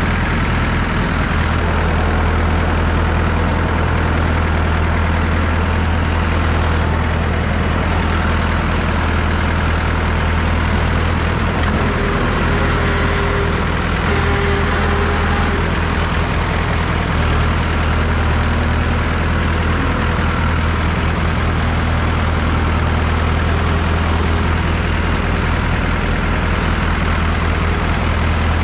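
Massey Ferguson 3165 backhoe tractor's diesel engine running at a steady speed, a constant low hum.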